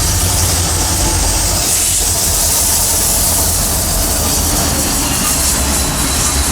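Norfolk Southern train rolling past at close range: a steady loud rumble of wheels on rail with a broad hiss, and a faint thin high squeal coming in during the second half.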